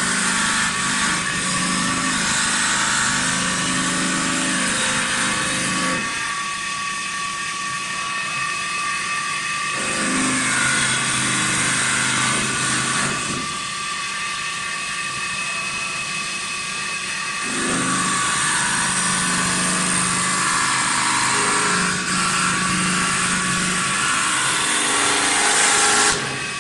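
Automatic CNC wood lathe turning wooden table legs: a steady machine running with a high, gritty cutting noise. The noise comes in louder spells of a few seconds (at the start, around ten seconds in, and around eighteen seconds in) with quieter spells between, then drops off sharply at the very end.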